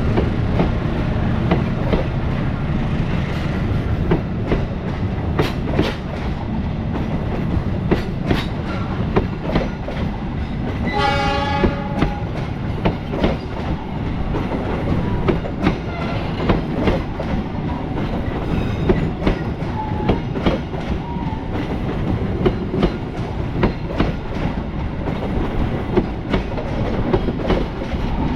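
An Indonesian train passing, its wheels clacking steadily over the rail joints with a continuous rumble. About eleven seconds in, the train horn sounds once, briefly.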